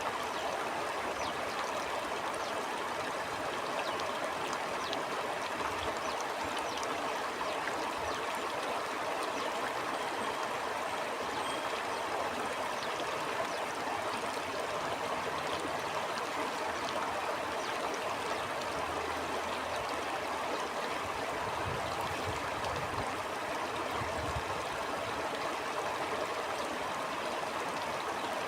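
A stream running steadily over rocks, a continuous rushing with small trickling and bubbling detail.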